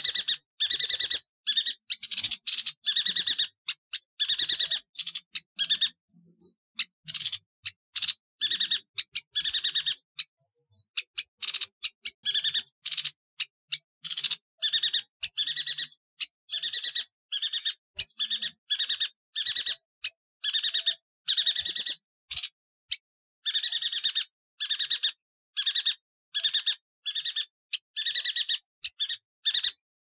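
Yuhina singing: short, sharp, high-pitched trilled bursts repeated over and over, about two a second, with brief gaps between them.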